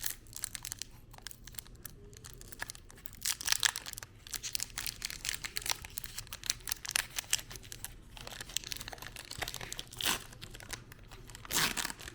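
Foil wrapper of a Pokémon trading card booster pack crinkling and tearing as it is opened by hand, a run of crackles with a louder flurry about three and a half seconds in and another near the end.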